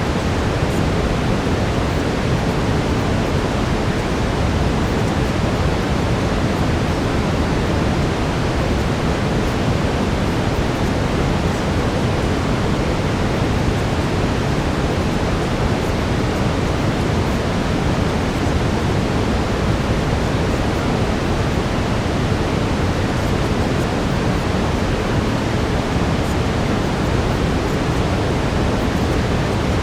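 Steady synthetic brown noise, a deep even rush heaviest in the low end with no changes or events.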